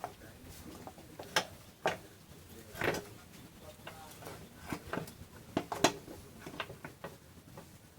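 Irregular sharp clicks and knocks, about a dozen, scattered and unevenly spaced.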